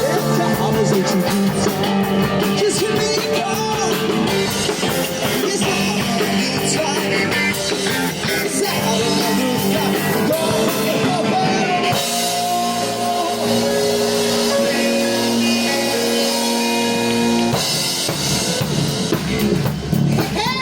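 Live band playing a rock song, with electric guitar and drums.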